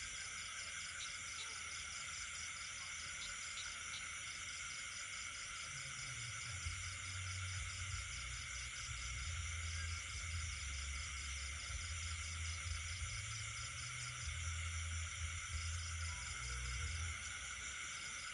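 Night chorus of crickets and other insects trilling steadily, several overlapping high calls with one pulsing at an even rhythm, with frogs among them. A low rumble comes in about six seconds in and dies away near the end.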